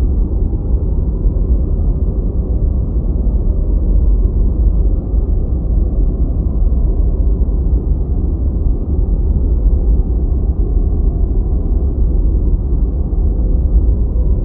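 Deep white noise: a steady, unchanging hiss weighted toward the low end, muffled with no bright top.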